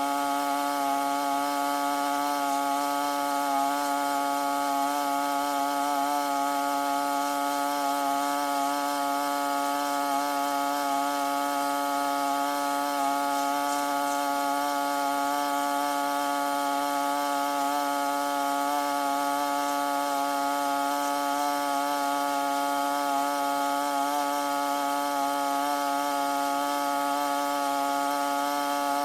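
Small engine or motor running at a steady high speed, holding one unchanging pitch throughout.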